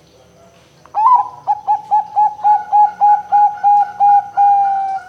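Zebra dove (perkutut) cooing: a sharp rising opening note, then a quick run of about ten short repeated coos at roughly four a second, ending in one longer drawn-out note.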